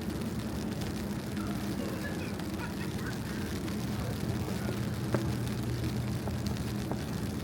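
Snowy city street ambience at night: a steady low mechanical hum, with faint distant voices and a sharp click about five seconds in.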